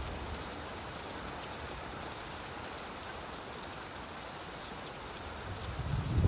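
Steady rainfall, an even hiss of rain on surfaces, with a low rumble of thunder building near the end.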